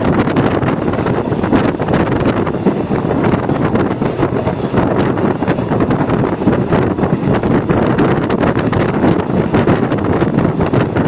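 Moving passenger train: a steady rush of wind on the microphone over the train's running noise.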